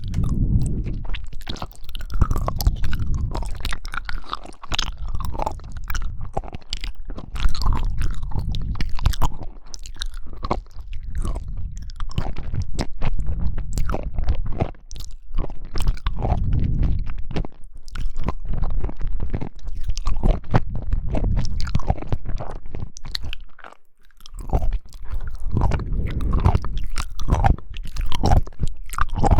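Close-miked chewing of jelly: a dense run of wet, squelching clicks and smacks, pausing briefly twice.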